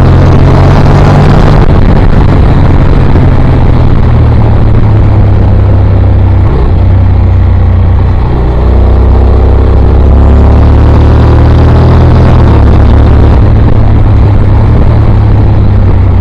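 Motorcycle engine and exhaust running at speed, loud and steady, with its pitch rising and falling a few times.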